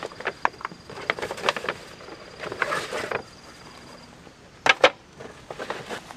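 Irregular light clicks, knocks and rustling, with two sharp clicks close together about four and a half seconds in. A faint steady high tone runs underneath for the first four seconds.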